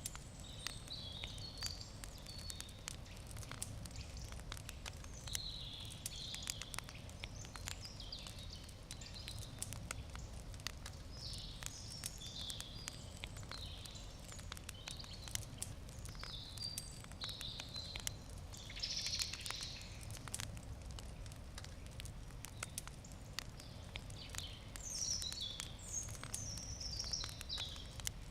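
Wood campfire crackling with frequent sharp pops, while birds chirp and sing on and off throughout.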